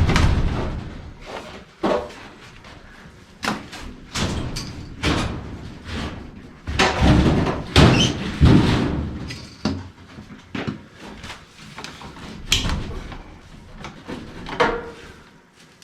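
Irregular knocks, bangs and scraping of tools and sheet-metal furnace parts being worked apart, with the loudest bangs about halfway through.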